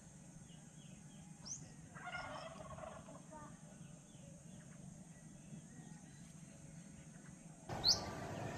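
Birds calling: a short rising chirp, then a harsher call of about a second with a fowl-like quality, and another sharp rising chirp near the end.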